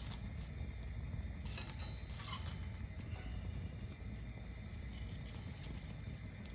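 Wood bonfire built as a log tower, burning with a steady low rumble of flame and scattered crackles and pops from the wood, and a brief hiss about two seconds in.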